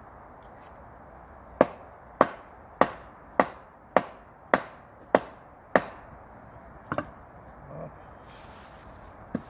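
Firewood being chopped: eight sharp, evenly spaced blows in quick succession, a little under two a second, then a lighter knock a second later and another near the end.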